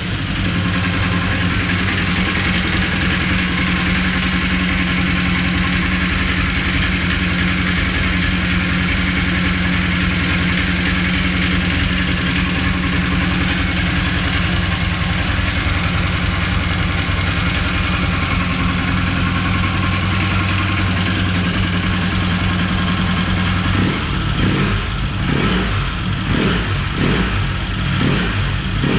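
Honda CB450 parallel-twin motorcycle engine running at a steady low idle, then blipped a few times near the end, the engine being run to show a strange noise it makes.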